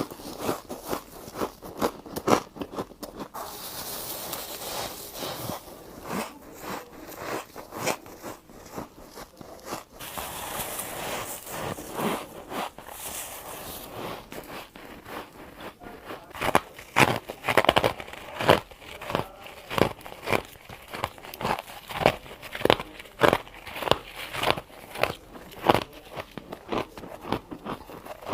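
Chunks of humidifier freezer frost being bitten and crunched. The first half is a dense, crackling crunch; from just past the middle come separate loud crunchy bites, about one or two a second.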